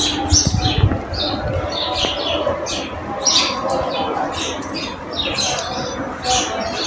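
Several songbirds chirping, many short high chirps a second overlapping throughout, with a brief low rumble in the first second.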